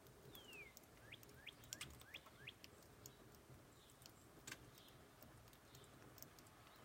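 Faint bird calls over near-silent room tone: one falling whistle, then a quick run of about five short rising chirps, with a few faint clicks.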